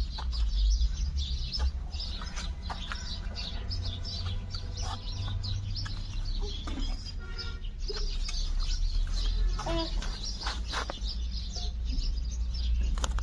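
Many short, high bird chirps throughout, over a steady low rumble.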